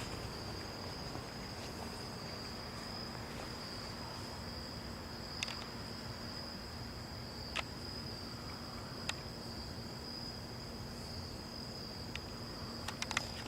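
Insects trilling in one steady, unbroken high note, with a faint low hum underneath. A few sharp clicks stand out in the middle, and a quick run of clicks comes near the end.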